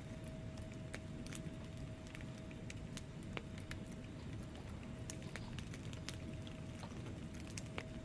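Wood fire in a fireplace crackling: irregular sharp pops and snaps from the burning logs over a low steady rumble of flames, with a faint steady tone underneath.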